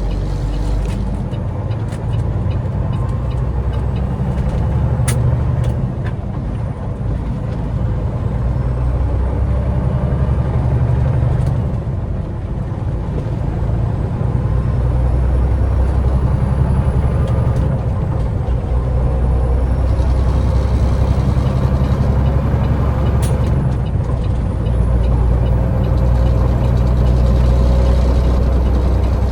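Semi truck's diesel engine running steadily under way, with a deep, even drone and a few brief clicks.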